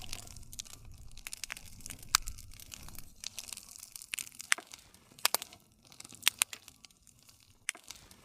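Wood campfire crackling: irregular sharp pops and snaps over a low rumble, which is stronger in the first few seconds and then thins out.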